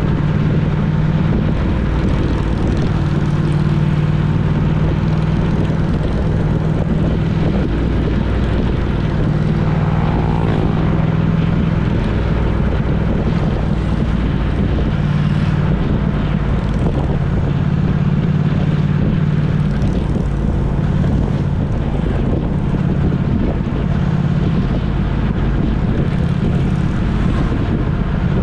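A vehicle's engine running steadily at cruising speed, a constant drone with road and wind noise.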